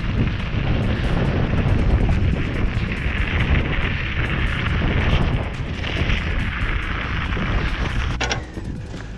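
Wind buffeting the microphone while riding a bike, a steady low rumble with a rushing hiss. About eight seconds in come a couple of sharp clicks, and the noise drops.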